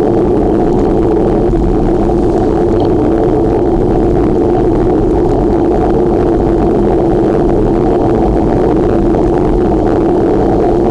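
Steady, loud wind noise rushing over the microphone of a camera carried on a moving bicycle.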